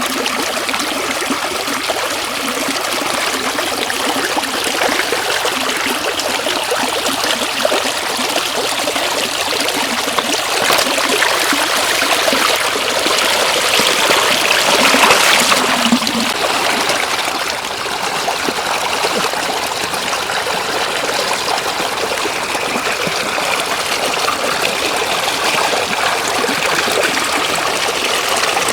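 Shallow floodwater running and trickling steadily, swelling louder for a few seconds around the middle.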